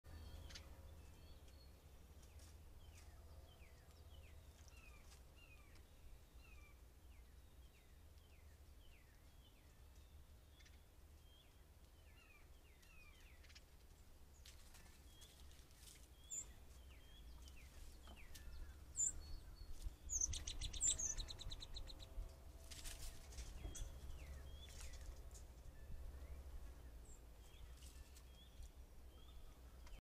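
Wild birds chirping and calling over a faint low steady rumble: a run of quick repeated down-slurred chirps through the first half, then a louder buzzy call a little past two-thirds in.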